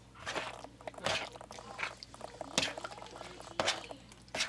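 Kitchen food-preparation sounds while seasoning fish for a snack: about five sharp taps and clicks spaced irregularly, with soft wet squishing between them.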